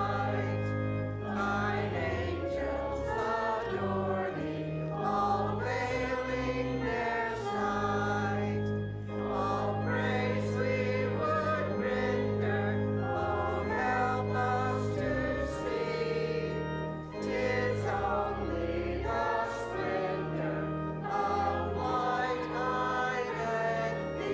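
Many voices singing a hymn together over held low accompanying notes that change every second or two.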